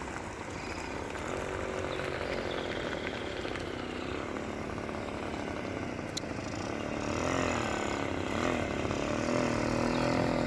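A small engine running, its pitch rising and dipping as it revs, and growing louder in the last few seconds.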